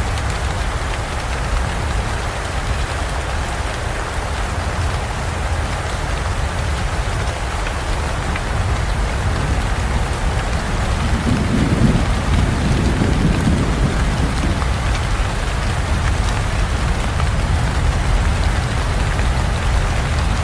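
Heavy rain falling steadily on forest foliage. A low rumble of thunder swells and fades a little past halfway through.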